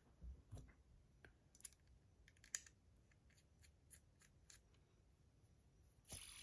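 Faint, scattered small metallic clicks and taps of buttons being fitted back onto a titanium Edamame fidget spinner, followed near the end by a brief soft rustle.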